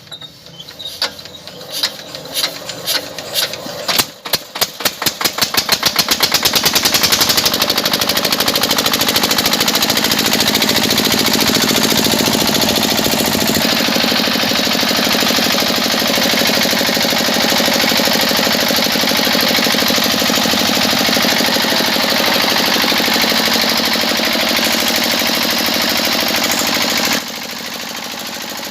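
A small motor-driven mechanism running with a rapid clicking rhythm: separate clicks speed up over the first several seconds into a fast, steady run, which drops suddenly to a quieter level shortly before the end.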